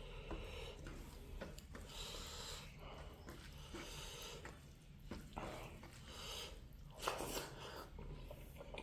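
A person chewing food close to the microphone, with irregular chewing sounds and a sharper click about seven seconds in.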